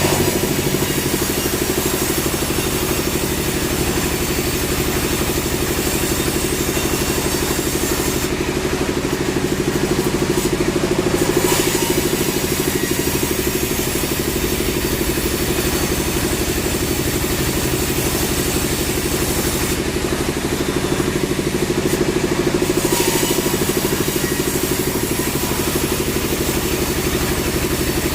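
Sawmill machinery running with a steady engine-like drone and a fast regular pulse. The high hiss above it drops away twice for a few seconds.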